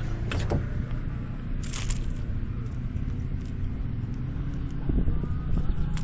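Steady low rumble of wind on the microphone, with scattered light clicks and knocks from handling in the kayak.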